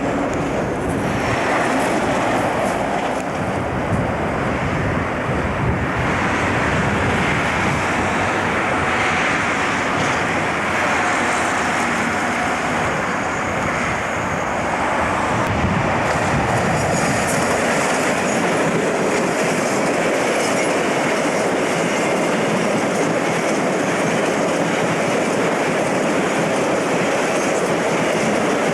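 A train passing close by, its wheels running steadily over the track with a continuous rolling clatter.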